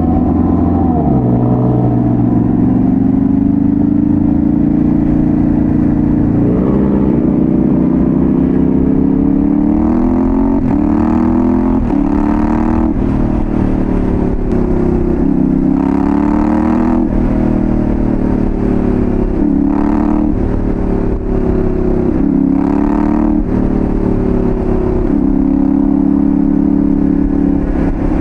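Yamaha Ténéré 700's parallel-twin engine through a full Dominator GP1 exhaust under riding load. The engine note rises and falls over and over as the bike accelerates, changes gear and slows, with several quick climbs and drops in pitch in the middle.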